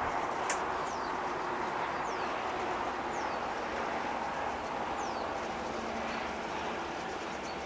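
A bird repeating short, high calls that fall in pitch every second or two over a steady rushing background, with one sharp click about half a second in.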